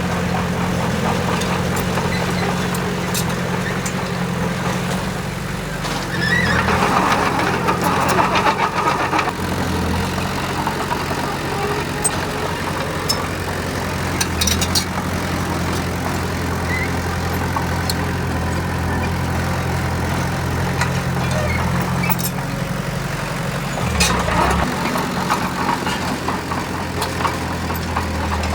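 Heavy diesel machinery engine running steadily, with two louder, rougher spells, one about a quarter of the way in and one near the end.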